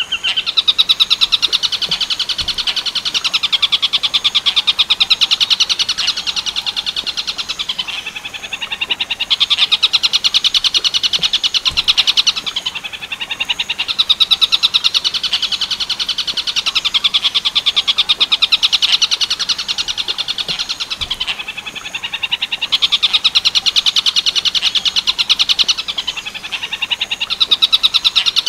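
Collared kingfisher ('tengkek buto') calling in a fast, unbroken chatter of sharp repeated notes, going on in long bouts that ease off briefly three times, played loud as a masteran recording for training cendet.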